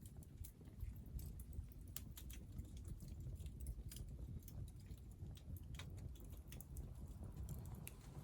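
Hardwood firewood burning in a Picogrill titanium fire pit, crackling with irregular sharp pops and snaps over a steady low rumble.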